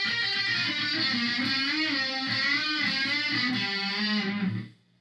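Electric guitar played through a Korg A5 multi-effects processor, with the delay switched on and its feedback turned fully up. Sustained notes waver in pitch, and the playing cuts off near the end.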